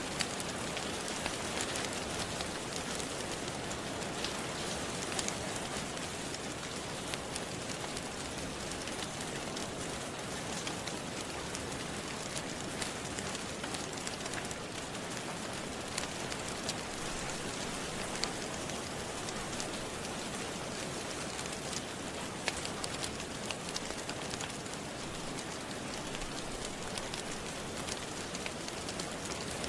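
Steady rain with the scattered sharp crackles of a wood fire in a fireplace.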